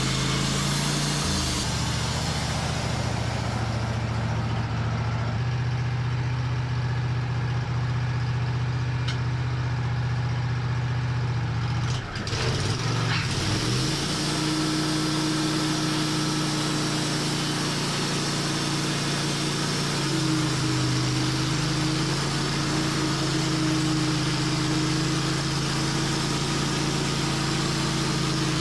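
Sawmill engine running steadily while the mill saws through a black walnut log. About twelve seconds in the engine note dips and wavers briefly, then settles again with a higher tone added.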